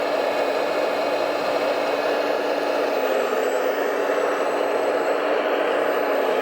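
Electric motor and gearbox of a radio-controlled scale truck running steadily with an even whir.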